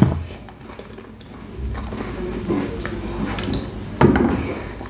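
Close-miked chewing and wet mouth sounds as a person eats a mouthful of bread, with small irregular clicks and smacks and a brief louder sound about four seconds in.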